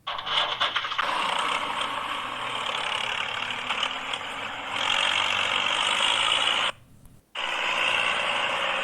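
A small machine running steadily with a rattling, scraping sound. It cuts off suddenly near the end for about half a second, then starts again.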